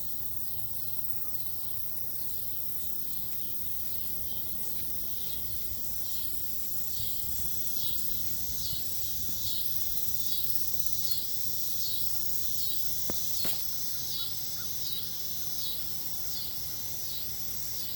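Outdoor insect chorus: a steady high buzz with a high chirping call that starts a few seconds in and repeats a little more than once a second. Two faint ticks come about two-thirds of the way through.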